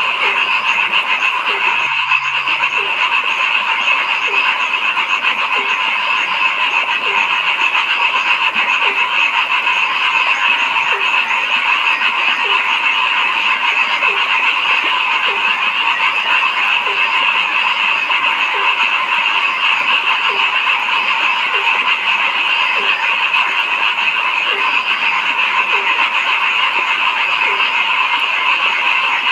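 A dense chorus of frogs calling without a break, its massed calls merging into a steady shrill trill, with one lower croak repeating roughly once a second.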